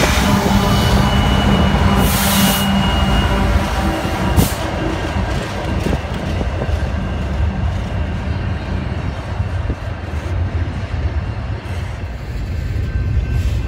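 Diesel freight locomotives, including a CN SD70M, running past close by with a deep engine drone and heavy rumble, then the train's wheels rolling on the rails as the units move away. A thin high wheel squeal sounds for a couple of seconds near the start.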